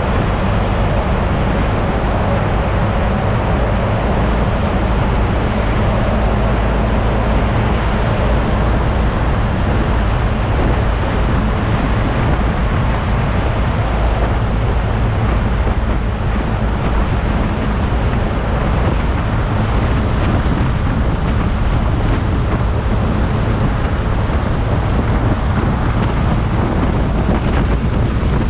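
Motorcycle riding on the road: a steady engine drone under loud, even wind and road noise that does not change.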